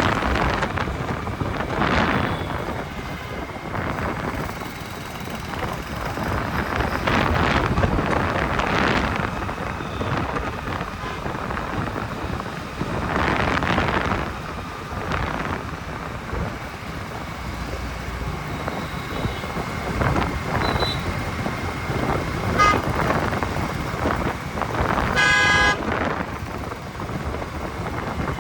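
City road traffic heard from a motorbike in motion: a steady rush of road and wind noise that swells several times as vehicles pass. Late on a horn gives a brief toot, and near the end another horn honks for about a second.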